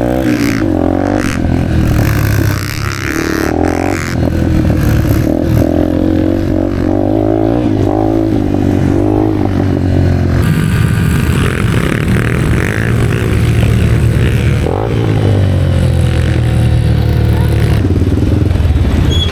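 Engine running steadily, with higher engine tones rising and falling over it and some clatter.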